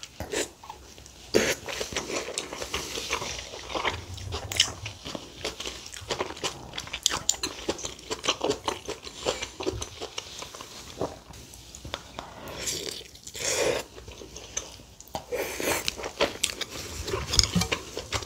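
Close-miked mouth sounds of a person chewing a mouthful of rice and stewed mustard-leaf kimchi: irregular wet chewing with many small mouth clicks.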